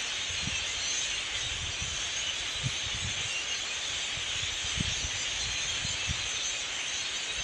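A huge flock of blackbirds calling all at once in the trees, a steady high chattering din with no single call standing out, with scattered low thumps underneath.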